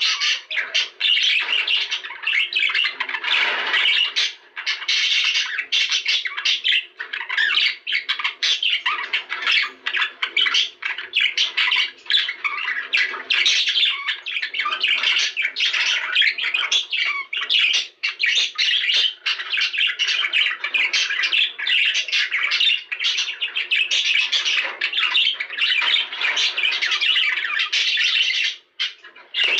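A group of budgerigars chattering and warbling without pause, a dense mix of chirps, squawks and twittering, with a short lull near the end.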